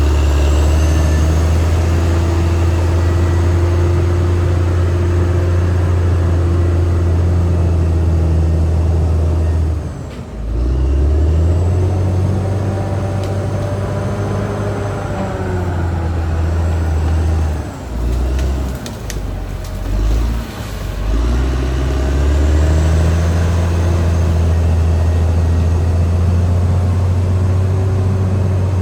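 Caterpillar D6R XL bulldozer's diesel engine running under load, a loud, steady, deep drone. Its level and pitch drop briefly about ten seconds in and again a few times between eighteen and twenty-one seconds in, then rise back.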